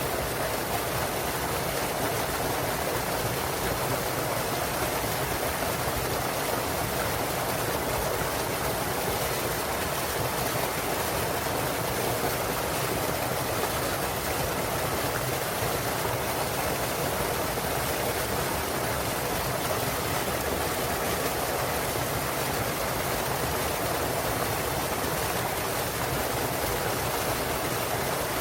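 Small waterfall on a clear mountain stream, water falling and rushing in a steady, even splash.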